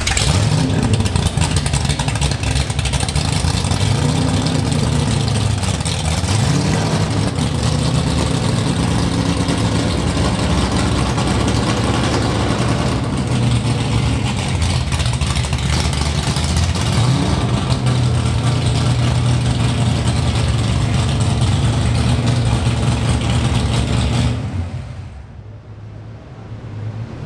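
1968 Dodge Dart L023 drag car's big-cam 426 Hemi V8 running loud, blipped up and down several times. The sound drops off sharply about 24 seconds in.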